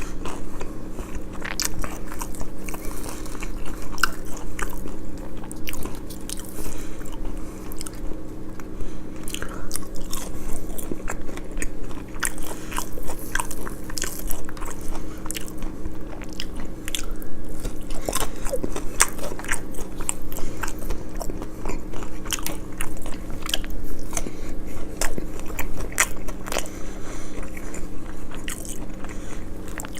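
Close-miked chewing and biting of food from a Popeyes fried-chicken meal, with many crisp crunches and clicks throughout over a steady low hum.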